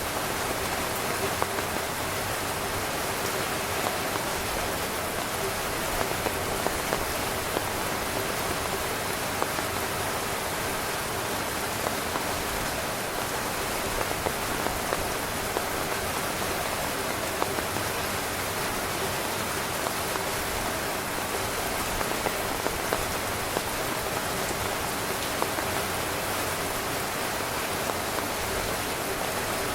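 Steady rain falling on a tent, an even wash of noise with frequent sharper hits of single drops scattered throughout.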